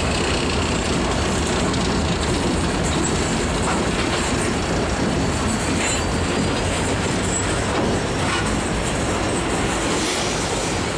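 Loaded coal train moving along the track: a steady, loud rumble of steel wheels on rail, with faint wheel squeal now and then.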